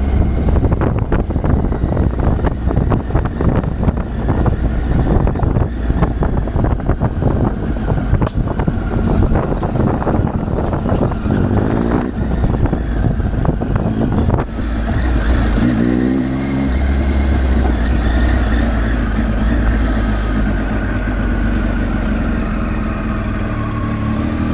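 Triumph Tiger 800 three-cylinder motorcycle engine running under way, with dense rattling and knocking through the first half. About halfway through the engine note rises and falls once, then holds a steady pitch.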